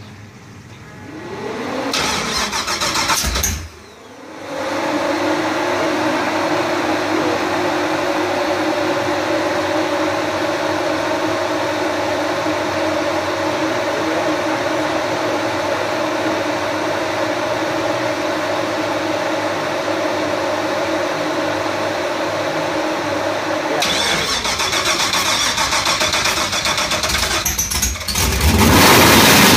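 Big-block V8 on mechanical fuel injection starting for the first time: it fires up about two seconds in, drops off briefly, then catches and runs steadily. It gets louder near the end.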